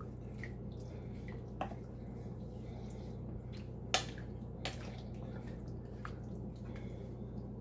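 Crock of soup heating on the stove: a steady low hum with four sharp, drip-like ticks spread across the seconds, the loudest about four seconds in.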